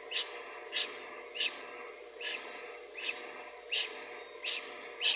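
Newly hatched gosling peeping: eight short, high peeps, about one every two-thirds of a second, over a steady low hum.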